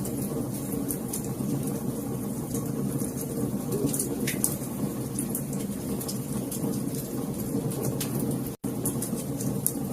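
Wood fire crackling: a steady low rumble of burning with frequent sharp pops and snaps. The sound cuts out for an instant about eight and a half seconds in, then resumes.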